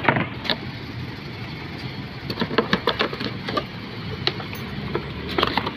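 A car engine idling steadily, with a few short clicks and scuffs of footsteps and handling over it.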